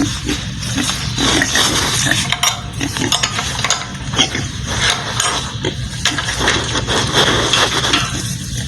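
Pigs grunting at close range, with scattered sharp knocks and clatter.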